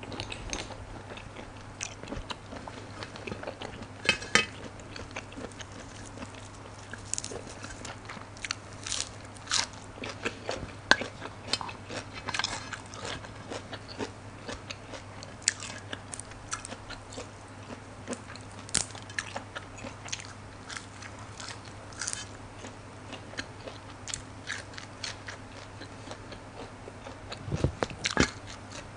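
Close-up eating sounds: a mouth chewing giant blood cockles and crisp raw vegetables, with irregular sharp crunches throughout. A steady low hum runs underneath.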